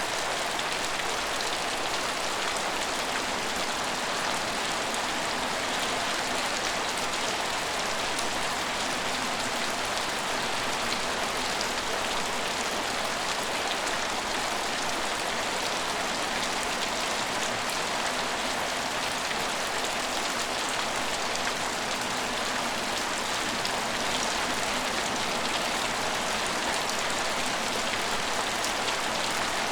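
Steady rain falling on hard surfaces, an even hiss of many small drops with no change in strength.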